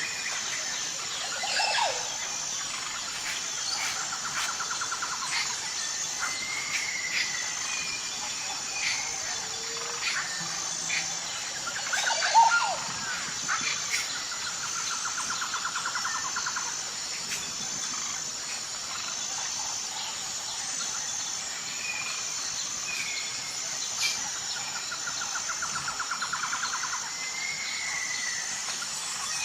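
Birds calling and chirping over a steady, high insect drone. A rapid trill comes back about every ten seconds, with louder calls about two seconds in and near the middle.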